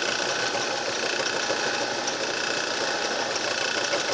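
Homemade can crusher machine running empty, its motors driving two cogged V-belts and the crusher wheels in a steady whir with a faint high whine.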